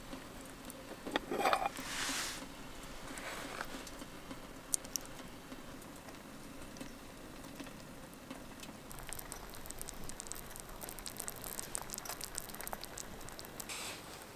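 Food crackling and spitting in a pan, with a couple of utensil knocks about a second in. The crackle grows denser in the second half.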